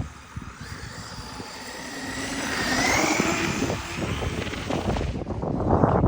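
Traxxas RC truck's electric motor whining as it speeds up, the pitch and loudness rising over about two seconds before easing off. Rough rumbling noise takes over near the end.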